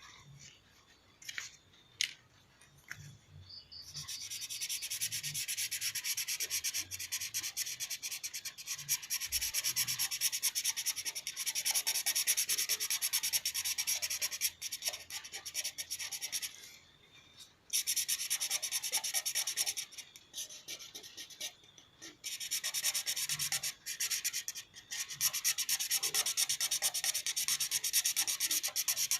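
Colouring on paper: rapid back-and-forth scribbling strokes of a colouring tool rubbing the paper, starting a few seconds in after a couple of light taps, with brief pauses near the middle and about two-thirds through.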